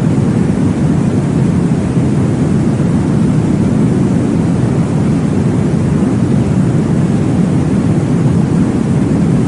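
Steady, deep whooshing noise, a womb-sound track imitating the blood-flow whoosh heard in utero, used to settle babies to sleep. It holds an even level throughout, with no distinct beats.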